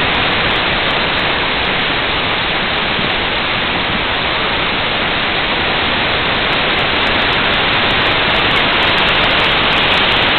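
Waterfall pouring, heard close by as a loud, steady rush of water with no change.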